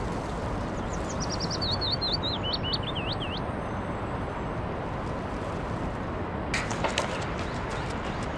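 Steady outdoor ambience in which a small bird sings a quick run of chirps, falling in pitch, from about one to three seconds in. Near the end, a person's running footsteps start on the paving.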